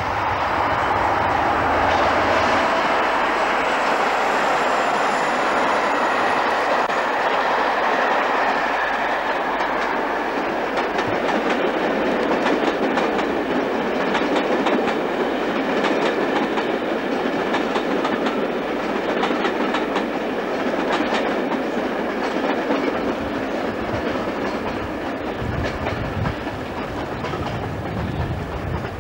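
Diesel-hauled InterCity passenger train passing at speed: the locomotive's engine is heard for the first few seconds with a faint falling whine, then the coaches follow with a steady clickety-clack of wheels over rail joints.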